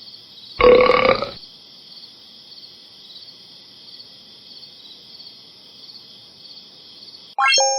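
A loud burp about a second in, lasting under a second, over a steady background of crickets chirping. Near the end a quick rising glide leads into a bright chime that rings on.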